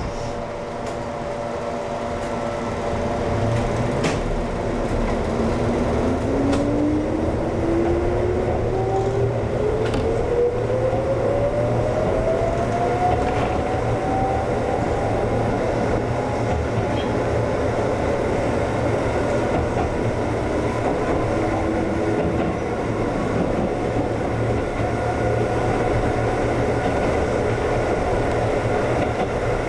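Konan Railway 7000-series electric train (ex-Tokyu 7000) pulling away from a station, heard from the front car: a motor whine climbs steadily in pitch for about ten seconds as the train accelerates, then holds level over steady wheel and running noise.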